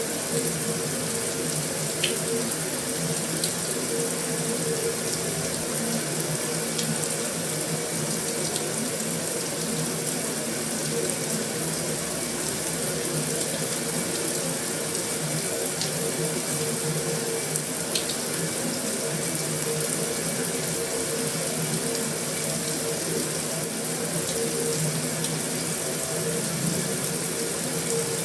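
Heavy rain on a metal roof: a steady, dense hiss of rainfall, with a few sharper drip ticks here and there.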